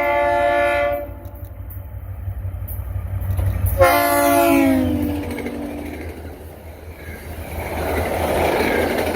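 NJ Transit diesel locomotive's multi-chime air horn sounded twice: a blast ending about a second in, then a second blast about four seconds in whose pitch drops as the locomotive passes. Under it the diesel engine rumbles, and near the end comes the clatter of the passenger cars rolling by.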